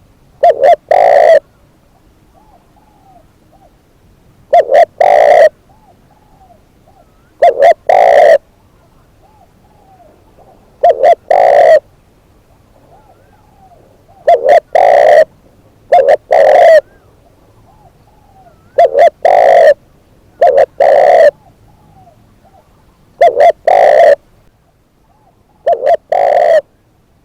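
A spotted dove (decoy bird) cooing loudly, repeating a three-note phrase of two short coos and a longer one about every three seconds. Fainter, softer coos are heard between the phrases.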